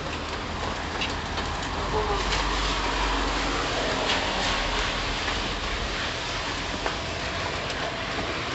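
Steady hiss of heavy typhoon rain mixed with street traffic noise, with a low rumble that eases about six seconds in.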